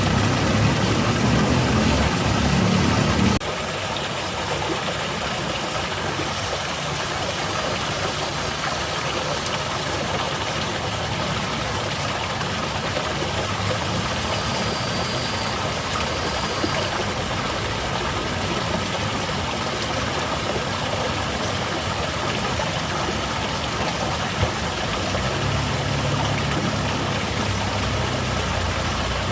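Water from a garden cascade falling and splashing in a steady rush. A low rumble under it stops abruptly about three seconds in and comes back briefly near the end.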